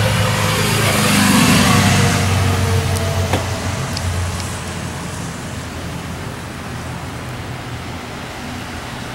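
A car passing by: its engine hum and tyre noise swell over the first two seconds, then fade away, leaving a steady background.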